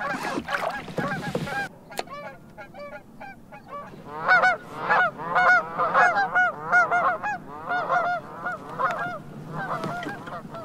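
A flock of geese honking, many short calls overlapping and growing thicker and louder about four seconds in, then thinning out near the end. A short rush of noise sounds at the start.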